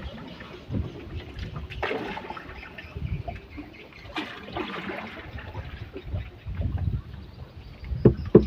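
Water splashing and trickling against a small wooden boat on a river, coming in irregular surges, with a sharp knock near the end.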